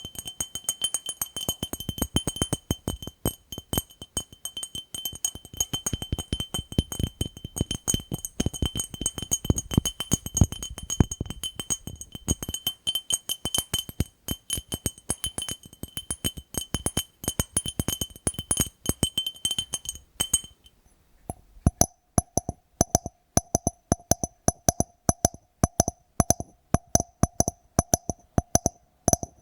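Rapid tapping on a glass jar, each tap leaving a clear high ring. About two-thirds of the way through, the tapping turns slower and evenly spaced, a few taps a second, with a lower ring.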